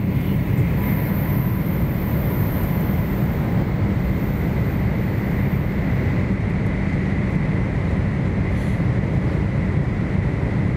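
Inside the passenger cabin of an N700S Shinkansen train, a steady low rumble of the train running on the line, with a faint steady high tone above it.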